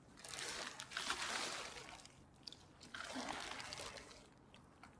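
Water sloshing and pouring out of a bottle just pulled from the river, in two pours of about two seconds each.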